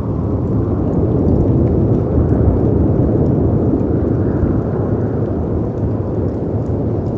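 Layered storm ambience of howling wind and sea waves breaking against rocks: a deep, dense rush that swells over the first few seconds and then eases. Faint crackles of a wood fire tick over it.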